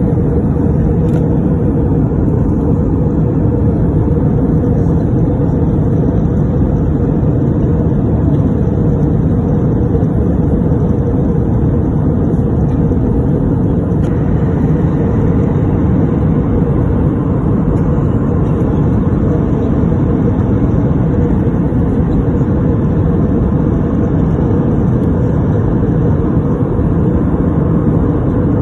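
Steady cabin drone of an Airbus A320-214 in flight: its CFM56 engines and the airflow over the fuselage, heard inside the cabin as an even low rumble with a little more hiss from about halfway.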